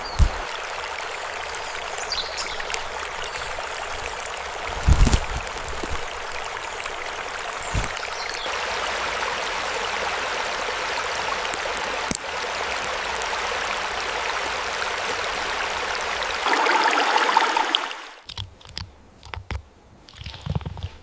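Running water of a stream, a steady rushing, with a few low thumps. About eighteen seconds in it cuts off abruptly, and scattered quiet scratching sounds follow.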